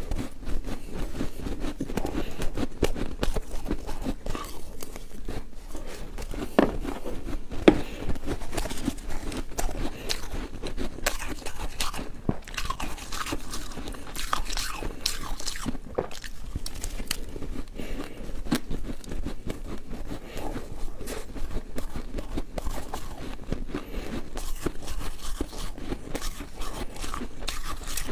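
Ice being bitten and chewed close to the microphone: a continuous run of irregular crunching and cracking, with a few sharper loud cracks about six to eight seconds in.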